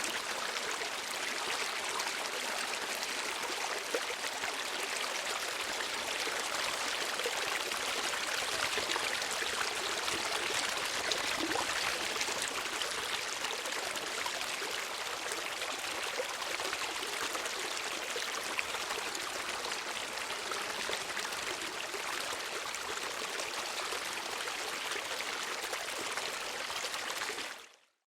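Steady rush of flowing water, like a small stream or brook running over rocks. It fades out to silence just before the end.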